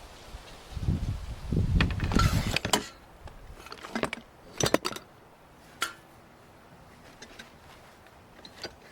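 Handling noises: a rumbling rustle for about two seconds, then a few scattered sharp clicks and clinks.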